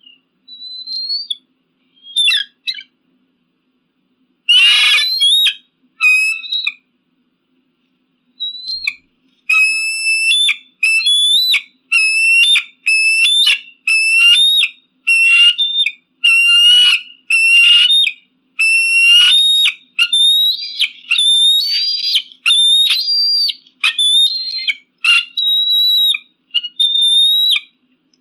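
Eagle calling: a few scattered high cries and one harsh screech in the first seconds, then a long steady series of short, high, whistled calls, about one a second, each stepping up in pitch at its end.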